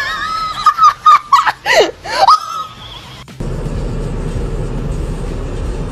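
High-pitched squeals and laughter for about three seconds, then a sudden change to a steady rushing noise, like wind or moving water.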